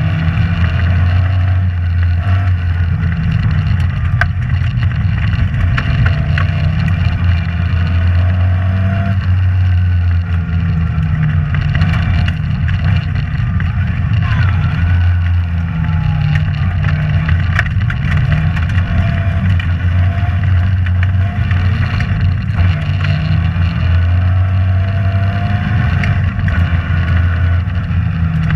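Rally car engine driven hard, heard from inside the cabin. The revs drop and climb again every few seconds through gear changes and lifts. Scattered knocks and clicks come from the car on the stage.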